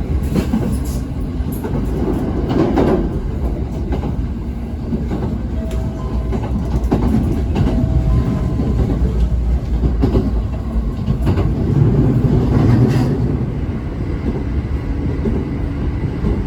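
Electric train running along the track: a steady heavy rumble with scattered clicks of the wheels over the rails.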